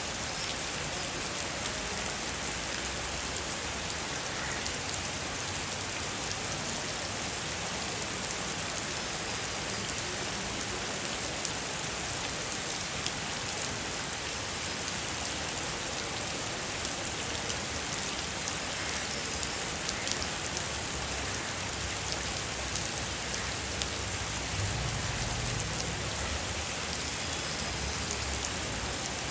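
Steady heavy monsoon rain falling on surfaces, a dense even hiss with individual drops ticking through it.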